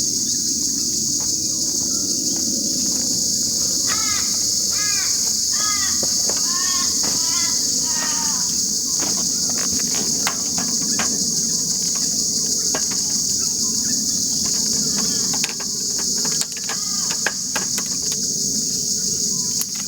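Steady high-pitched insect chorus in the bush, with a bird calling in repeated rising-and-falling notes for a few seconds in the first half and a few scattered clicks and knocks in the second half.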